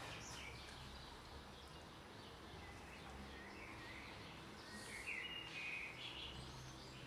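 Faint birds chirping over a low, steady background rumble, with short calls just at the start and a longer chirping phrase about five seconds in.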